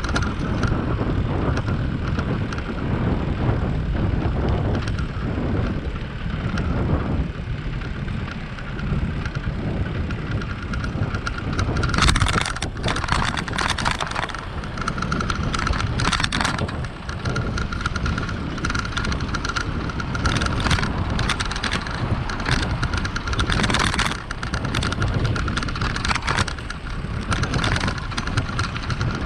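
Wind buffeting the microphone of a GoPro on a moving bicycle, a steady low rumble and hiss. From about twelve seconds in, scattered rattling clicks and a faint steady high whine join it.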